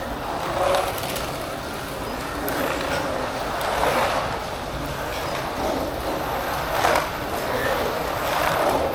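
Slot cars running on the track, their small electric motors whirring and rolling noise swelling and fading as they pass, with a sharp click about seven seconds in.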